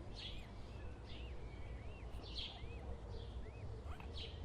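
Bird chirping: a string of short, high chirps that rise and fall, about two a second, over a steady low outdoor rumble.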